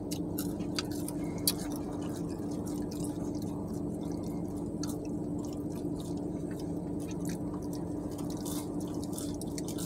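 Close-up eating sounds: chewing fries with many small wet mouth clicks and smacks, one sharper click about a second and a half in, over a steady low hum in the car cabin.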